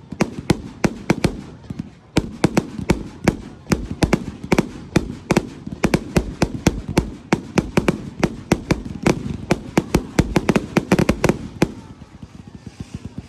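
Fireworks display going off in rapid bangs, several a second, each with a short echo, thinning to fainter pops near the end.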